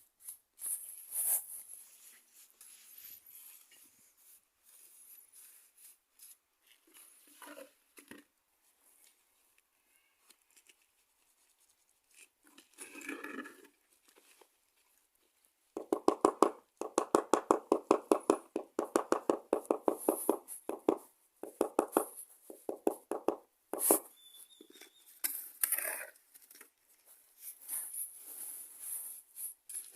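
Rhythmic scraping strokes, about four a second, starting about halfway through and going on for several seconds, then continuing more unevenly. Scattered light clicks and taps come before them.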